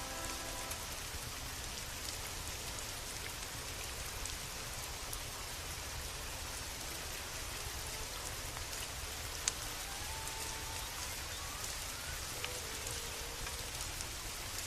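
Steady rain falling, with a few sharp pops of a wood fire crackling, the loudest about nine and a half seconds in.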